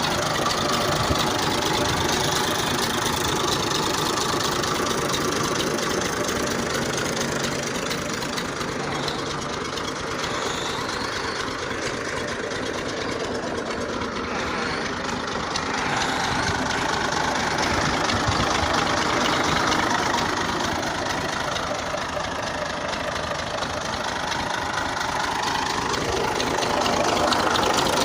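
Engine of a 1978 Massey Ferguson 135 tractor idling steadily.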